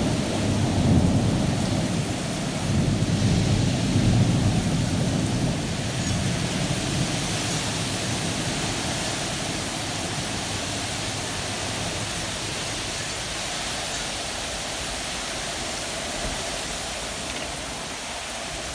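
Thunderstorm: a low rumble of thunder dying away over the first few seconds, leaving a steady hiss of rain and wind that slowly eases.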